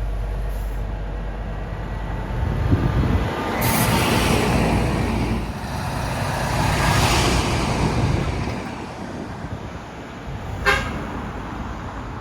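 Large trucks driving past, engines and tyre noise swelling twice as they go by, with a short sharp toot-like sound near the end.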